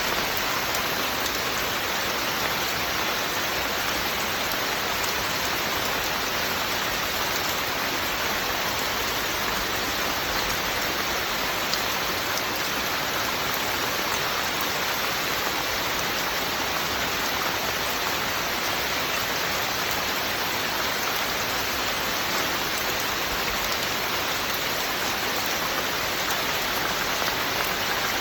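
Steady rain falling, an even hiss of many drops that neither swells nor fades.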